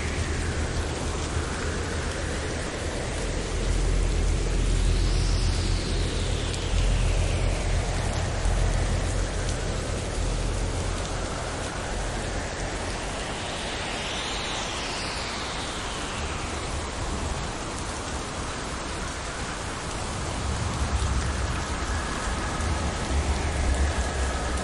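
Steady heavy rain falling during a thunderstorm, with low rumbles of distant thunder swelling a few seconds in and again near the end.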